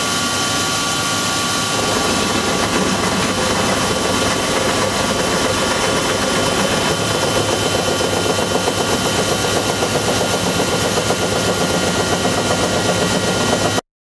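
Strippit 1250S CNC turret press nibbling sheet metal: a very rapid, steady run of punch strokes over the machine's steady whine. It cuts off suddenly near the end.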